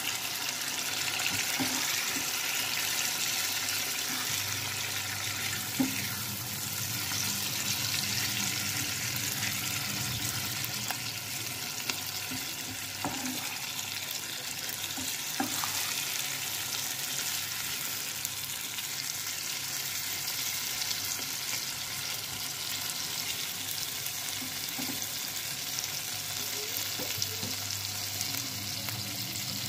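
Whole raw shrimp frying in an oily spiced masala with tomato: a steady sizzle, with a few knocks and scrapes of a spatula stirring them in the pan.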